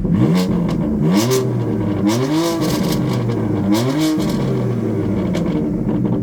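BMW M4's twin-turbo inline-six revved in neutral through its titanium M exhaust with the exhaust valve open, about four quick blips that rise sharply and fall back to idle. Sharp crackles follow the rev peaks.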